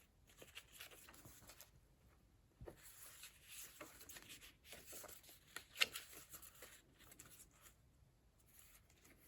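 Faint rustling of paper pages in a handmade junk journal being handled and turned, with a few light taps, the sharpest about six seconds in.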